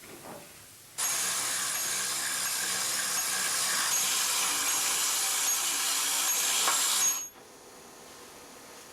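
A small electric motor whirring at high speed, switched on suddenly about a second in and cut off abruptly about six seconds later.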